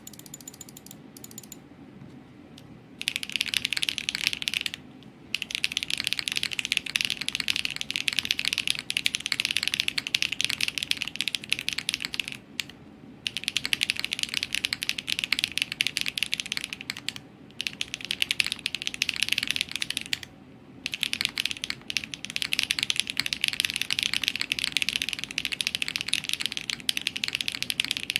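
Fast typing on a Paper80 custom mechanical keyboard with HMX Macchiato switches, a polycarbonate plate and no foam. A dense run of keystrokes starts about three seconds in, broken by a few short pauses.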